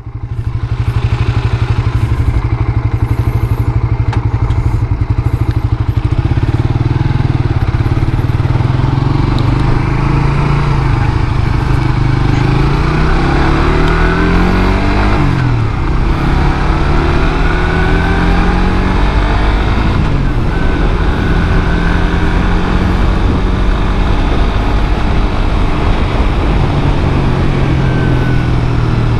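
Suzuki GSX-R150's single-cylinder engine running through its stock exhaust under riding: the engine note climbs under acceleration and drops sharply at gear changes, about halfway through and again a few seconds later.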